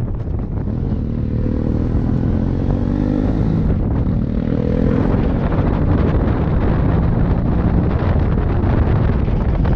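Motorcycle engine running on the move, its pitch climbing twice as it accelerates between about one and five seconds in, over a heavy rush of wind on the microphone.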